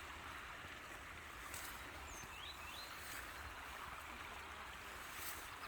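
Steady, distant rush of the Craigie Linn waterfall heard through the woods, with a small bird giving a couple of short high chirps about two and a half seconds in.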